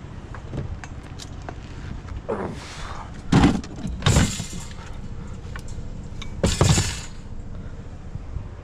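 A discarded bicycle being handled, rattling and clanking loudly three times, about three and a half, four and six and a half seconds in.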